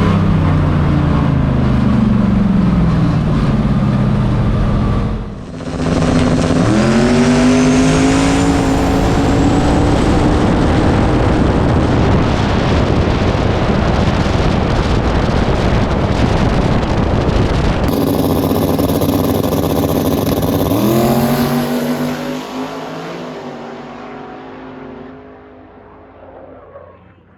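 Drag race cars at full throttle down the strip, the engine pitch climbing and dropping back through several gear changes, then fading away over the last few seconds.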